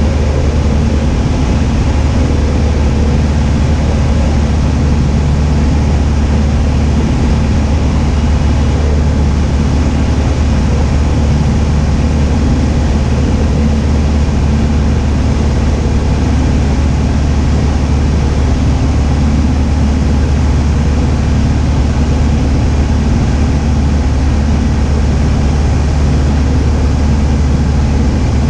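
Cessna 172H's six-cylinder Continental O-300 engine and propeller running steadily, a constant loud drone with no change in pitch.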